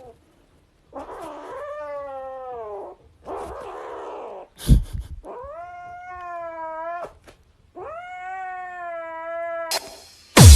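A cat yowling in three long, drawn-out calls: the first falls in pitch, the next two rise and then hold. Between the first two calls comes a harsh, rough cry, then a sharp thump, the loudest moment. Music starts at the very end.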